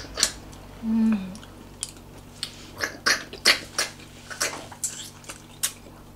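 Close-miked chewing and wet lip-smacking of people eating, a rapid run of sharp smacks and clicks. About a second in comes a short, low hummed voice sound.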